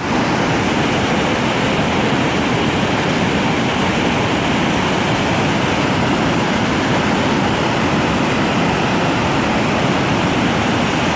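Waterfall, its falling water rushing steadily and loudly.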